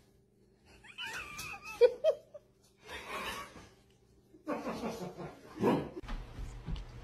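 Husky whining and yowling in short bending calls, with people laughing.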